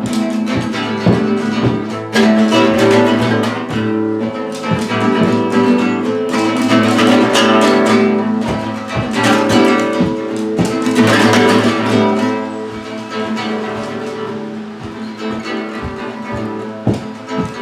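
Instrumental guitar music: strummed and plucked acoustic guitar playing a break between sung verses, easing down in the last few seconds.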